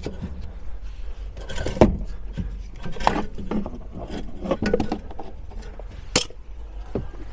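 Scattered metallic knocks, clinks and scrapes of a removed rear shock absorber and hand tools being handled during a shock absorber change, with two sharper knocks about two seconds in and about six seconds in, over a low steady rumble.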